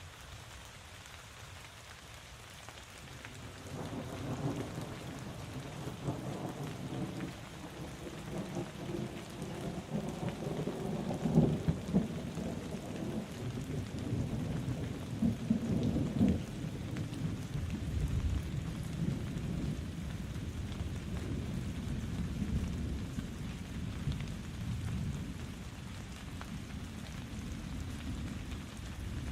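Steady rain falling, with a long roll of thunder that builds from about three seconds in. It peaks loudest in two cracks around the middle, then keeps rumbling low.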